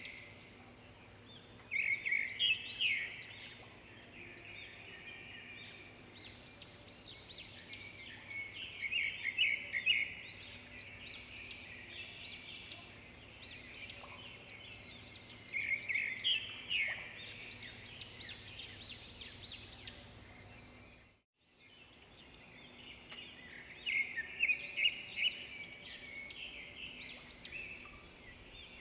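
Songbirds singing, repeating quick trilled phrases again and again, over a faint steady background hum. The sound drops out briefly a little past two-thirds of the way through.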